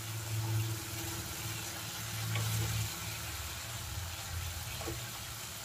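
Masala paste sizzling softly in oil in a non-stick kadai as a wooden spatula stirs and scrapes it over low heat. The oil has begun to separate from the paste, the sign that the masala is nearly fried. A low steady hum runs underneath.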